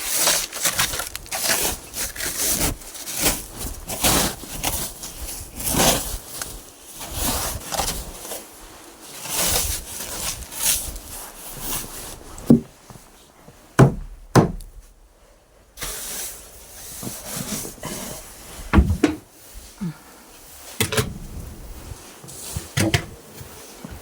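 A brush sweeping snow in repeated swishing strokes, about one or two a second, with a few sharp knocks around the middle and near the end. The snow is only being brushed off loosely, not yet scraped.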